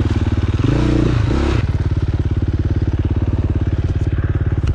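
Dirt bike engine blipped a couple of times, its pitch rising and falling, then settling into a steady, evenly pulsing idle about a second and a half in.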